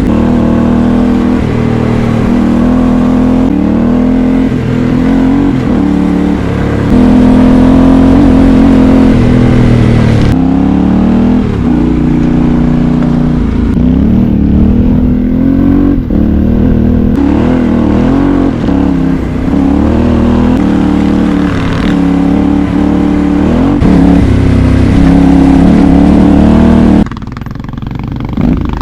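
Yamaha Ténéré 700's parallel-twin engine under way, revs rising and falling as the bike is ridden and shifted through the gears. The sound drops away briefly near the end.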